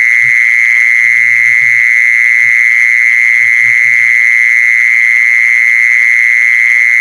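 A lure call for the female kmol animal: one loud, high-pitched call held steady at a single pitch without a break. Faint low murmurs come and go underneath.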